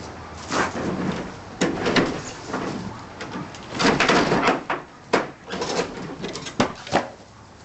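Demolition of a rotten porch roof: irregular knocks, cracks and crunches of old wood framing being broken apart, with debris falling. The crashing is heaviest about four seconds in.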